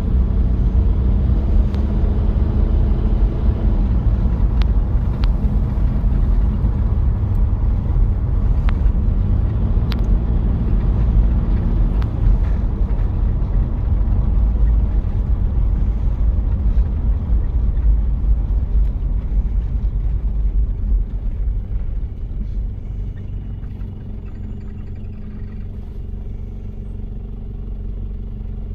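Diesel engine of a 1993 Toyota Prado running while driving, with a heavy low rumble and a few sharp clicks in the first half. A little past twenty seconds it gets quieter and the engine note settles steadier, as if easing off.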